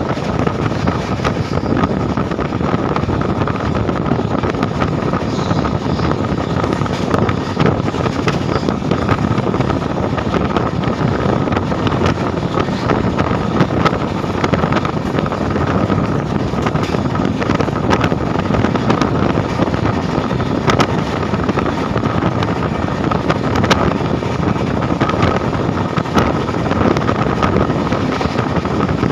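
Indian Railways train running at speed, heard from on board: a steady, loud rush of wheel-and-rail noise and wind on the microphone, with a faint steady whine and occasional faint clicks.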